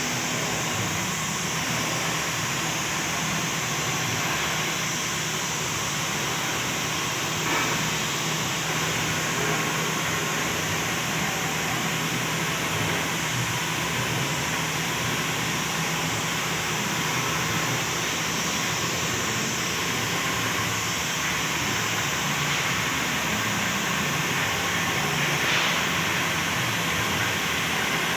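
Compressed-air paint spray gun hissing steadily, over a low steady hum.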